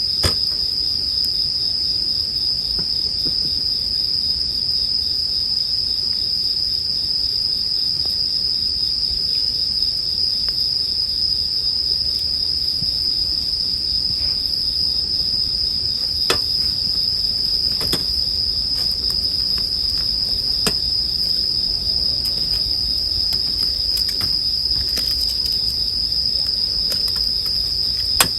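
Japanese bell crickets (suzumushi) singing, a steady high ringing trill that never breaks, with a few sharp pops and crackles from a campfire, the loudest near the end.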